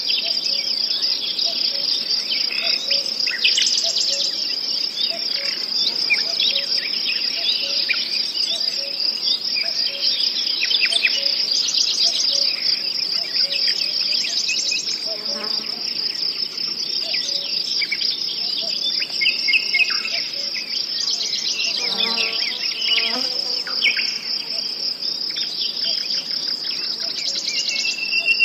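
Nature-sound recording: a steady high-pitched chorus of crickets, with bird chirps and calls scattered over it throughout.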